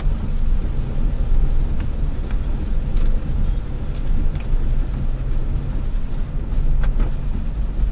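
Steady low rumble of road and engine noise inside a Honda Elevate's cabin while driving on wet roads, with a few faint ticks.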